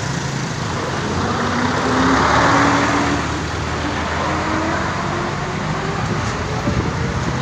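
Road traffic. A vehicle passes close by and is loudest about two to three seconds in, while an engine's pitch rises as a vehicle pulls away and speeds up.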